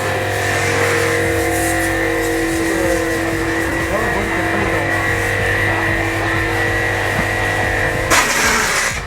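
Portable electric high-pressure car washer running: its motor and pump hum steadily under the hiss of the water jet spraying a car tyre. About eight seconds in, a louder rush of spray lasts about a second.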